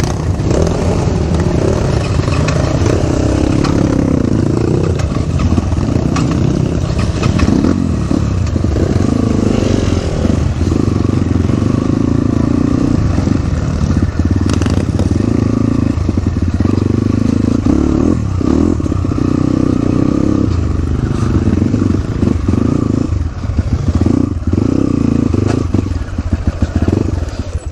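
Crossfire RM250 dirt bike engine running while riding a rough dirt road, its note rising and falling with the throttle, with rattles and knocks from the bike over the bumps.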